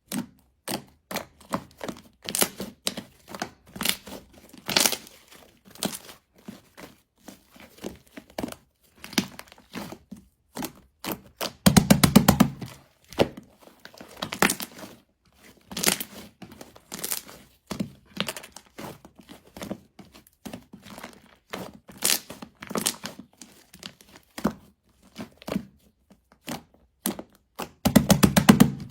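Close handling of a soft material: a dense, irregular run of small cracks, clicks and crinkles, with a louder, longer burst of crackling about twelve seconds in and another near the end.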